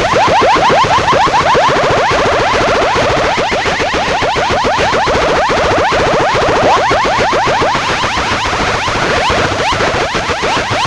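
DJ sound effects played loud through a large PA sound system: a rapid run of rising zaps, several a second, with echo, going on without a break.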